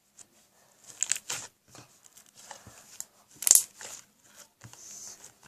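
Close handling noises: scattered crinkly, crackling rustles with two louder bursts, one about a second in and one about three and a half seconds in.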